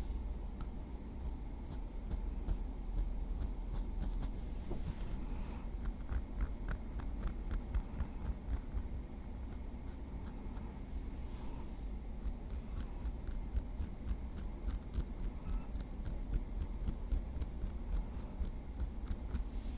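Small wooden stick tapping lightly in quick, uneven runs of soft clicks, several a second, over a steady low hum.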